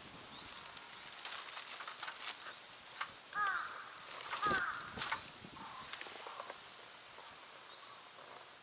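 Crow cawing twice, short harsh calls about three and a half and four and a half seconds in, over scattered light clicks and knocks.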